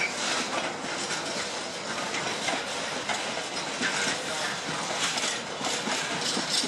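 Container freight train's flat wagons rolling past, a steady rush with the wheels clicking over the rail joints.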